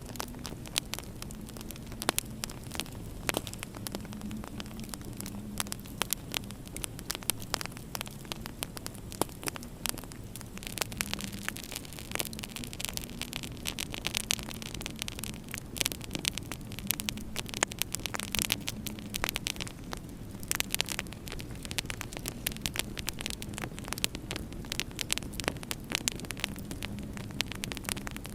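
Wood fire crackling in a fireplace: dense, irregular sharp pops and snaps over a steady low hum.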